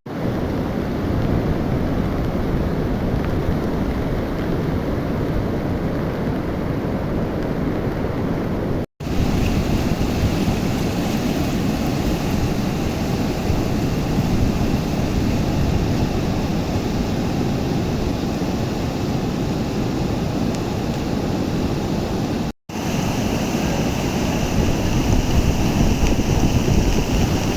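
Steady rushing of a swollen river in flood, a deep continuous rumble of fast water, with wind buffeting the microphone. The sound drops out for an instant twice, about 9 and 23 seconds in.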